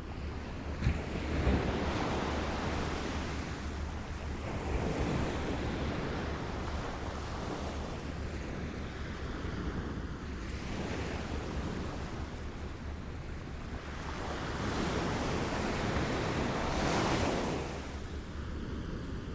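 Small waves lapping at the shore, washing in and fading every few seconds, the largest wash swelling near the end and then dropping off suddenly. A short sharp click about a second in.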